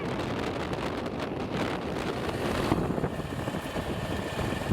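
Steady wind rushing over the microphone with a vehicle's engine running underneath, typical of riding on a motorcycle.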